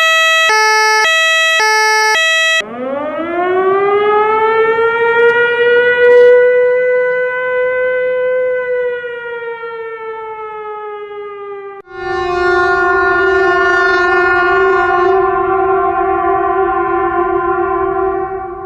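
A sequence of emergency-vehicle sounds: a quick alternating two-tone hi-lo siren, then a siren winding up in pitch over about three seconds and slowly sliding back down, then a steady, unbroken horn blast with a low rumble beneath it.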